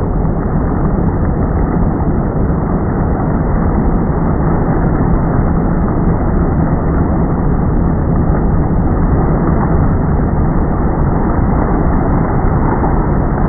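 Steady drone of a boat's motor running under a constant wash of wind and water noise, with no change in pace.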